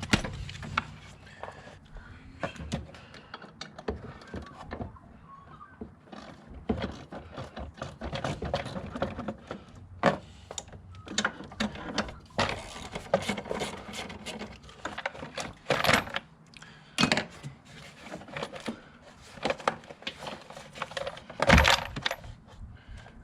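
Hand tools and car parts being handled in an engine bay: irregular sharp clicks, clinks and clanks, a few louder knocks among them, as the airbox is taken out to reach the gear shift cables.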